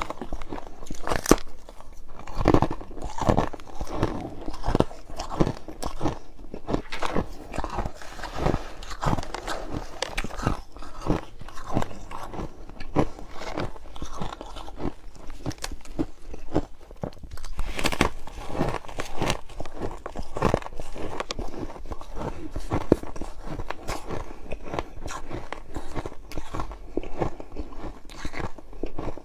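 A person biting and chewing crushed ice, a continuous run of crisp, irregular crunches.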